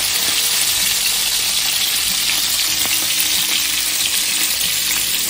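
Stuffed chicken breast rolls shallow-frying in oil in a nonstick pan, a steady sizzle.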